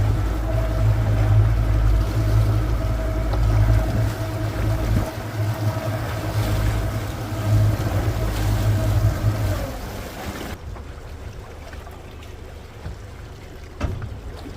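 A boat engine running steadily with a low hum, cutting off about ten seconds in, leaving wind and water noise.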